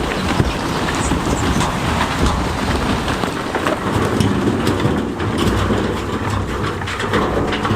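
Large stones grinding and clattering against one another, with many sharp knocks, over the low steady running of a heavy diesel engine.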